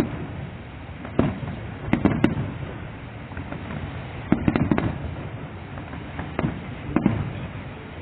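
Aerial fireworks bursting, a string of sharp bangs at uneven intervals, with a quick cluster of several bangs about halfway through.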